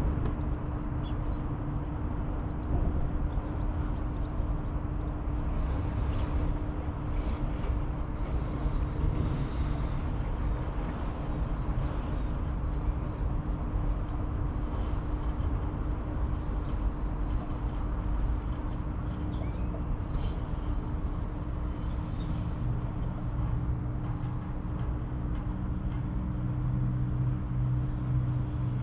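Riverside outdoor ambience dominated by a steady low rumble of distant traffic, with a constant hum running through it. A deeper engine hum swells over the last few seconds, and faint high chirps are scattered throughout.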